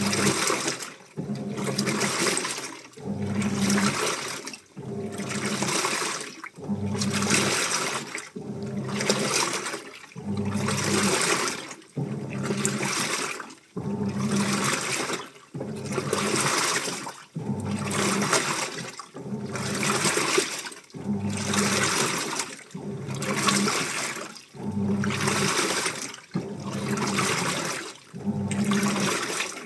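Washing machine in its wash cycle: water and laundry sloshing in a steady rhythm, one swash about every second and a half, each with a low motor hum.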